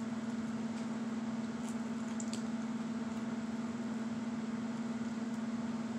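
Toasted bread being chewed, giving a few faint crisp crunches, over a steady low hum.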